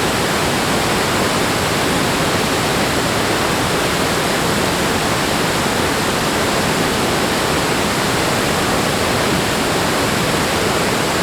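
Steady rush of flowing water, an even, unbroken roar with no swells or splashes standing out.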